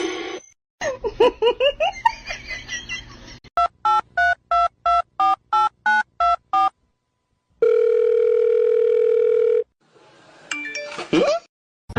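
Telephone tones: a row of eleven short identical beeps at about three or four a second, like keys pressed on a phone keypad, then a steady tone held for about two seconds. Before the beeps comes a warbling pitched sound.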